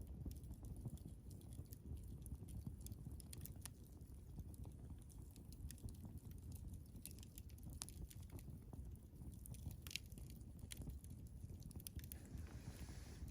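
Wood campfire crackling faintly, with scattered sharp pops and snaps over a low rumble of the burning fire, and a short hiss near the end.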